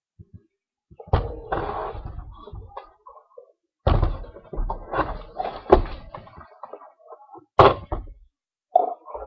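A series of irregular knocks and thumps, about six in all, each followed by a short rattling ring, with silent gaps between them.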